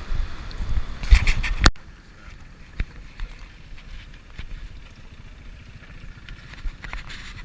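Handling noise on the camera's microphone: loud rumbling and knocks that cut off suddenly a little under two seconds in, followed by a quieter steady low rumble with a few faint ticks.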